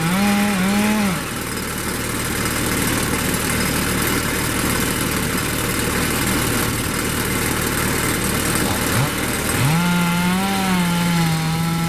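Two-stroke chainsaw running at high revs with a wavering pitch as it works. About a second in the high note drops away, leaving a steady dense engine-and-cutting noise, and near the end it revs back up to the high, wavering note.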